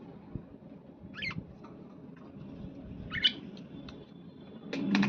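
Budgerigar chirping: two short warbling chirps about two seconds apart, over faint background noise. Near the end comes a louder, broader burst of sound.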